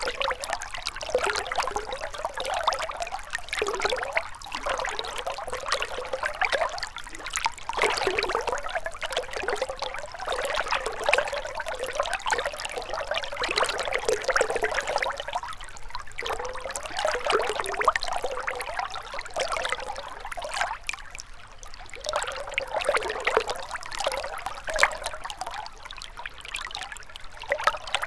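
Shallow river water flowing and gurgling steadily over stones, a continuous babbling with small rising and falling swirls.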